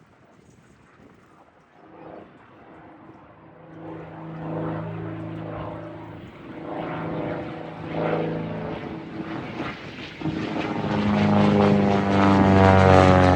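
Propeller airplane taking off, its engine tone faint at first and building from a few seconds in. It grows much louder over the last few seconds as the plane comes close.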